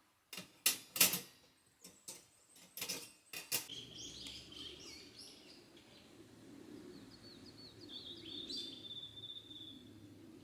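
A run of sharp clacks and knocks in the first few seconds, the two loudest close together about a second in. Then forest songbirds chirp over a steady low background, and one gives a fast trill near the end.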